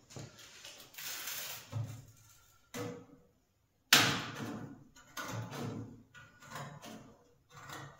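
Tin snips cutting 0.8 mm stainless steel sheet: a run of short crunching snips and scraping metal. They break off briefly, then a sharp, loud clack comes about four seconds in, followed by more snips.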